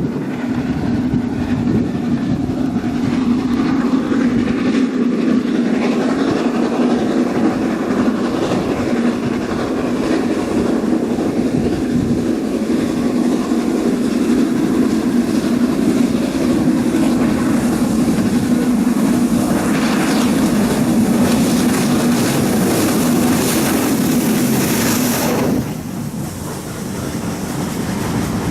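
Train running along the line, a continuous rumble with a steady low hum that drops away abruptly near the end.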